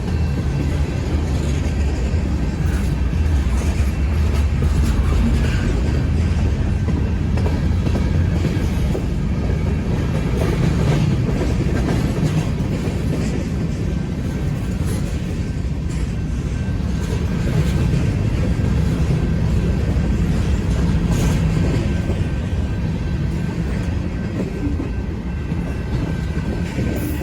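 Freight train cars rolling past, a steady heavy rumble with wheel clatter over the rails.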